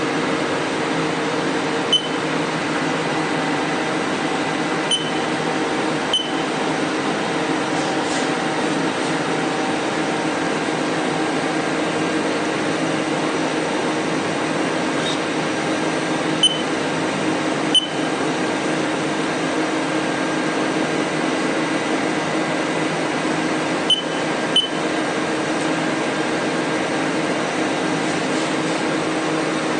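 Steady machinery hum with fan-like air noise and several held tones, with a few short, sharp clicks scattered through it.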